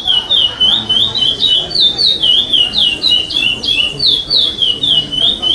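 A chestnut-bellied seed finch (curió) sings a continuous competition song of the 'pardo' type. Its quick whistled notes slide up and down, about four or five a second, without a break.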